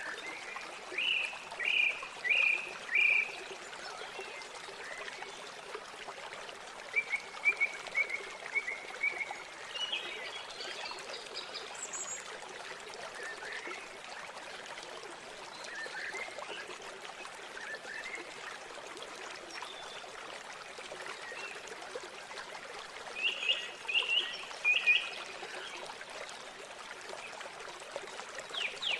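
River water running steadily, with small birds chirping over it. There is a quick series of four or five notes a second or two in, a run of notes around a quarter to a third of the way through, and another short series near the end.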